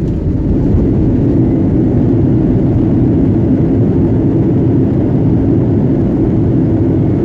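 Jet airliner cabin noise heard from inside: a loud, steady rumble of the engines and rushing air with no distinct events.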